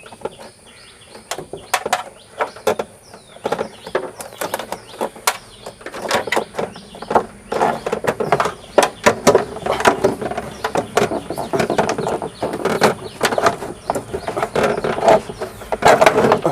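Irregular knocks, clicks and scraping as a wiper motor assembly is worked through a hole in an auto rickshaw's dashboard, metal and plastic parts rubbing and bumping. The scraping grows denser and busier about six seconds in.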